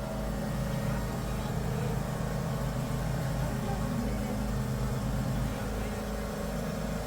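A motor vehicle's engine running steadily: an even, unchanging hum over a low rumble.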